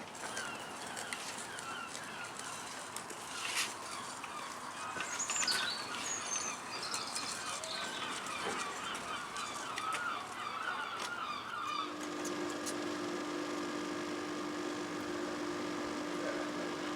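Many birds calling, with short repeated calls throughout, some of them waterfowl-like. About twelve seconds in, a steady low tone from a machine starts and holds.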